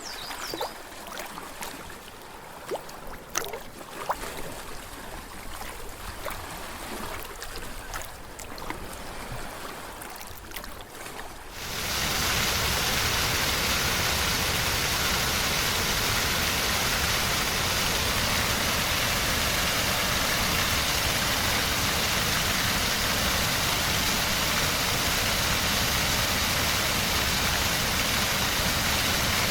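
Water lapping and trickling at the shore with small splashes and clicks. About twelve seconds in it switches abruptly to a steady, louder rush of falling water.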